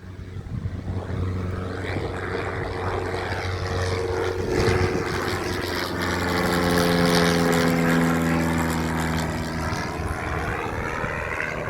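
Propeller airplane passing close on a touch and go, its engine and propeller drone growing louder. The pitch drops as it goes by, about halfway through.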